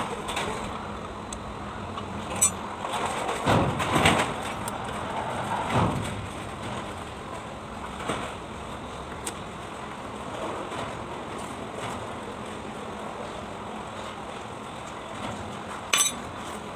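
Scattered metal clinks and knocks, with a cluster of heavier knocks and scraping a few seconds in and a sharp clink near the end.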